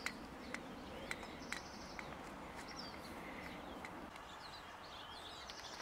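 Quiet outdoor ambience with faint, scattered bird chirps and a few light ticks.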